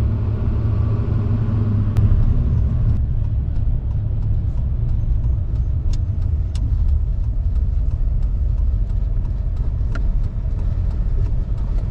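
Steady low rumble of engine and road noise inside a moving vehicle's cabin, with a few faint clicks.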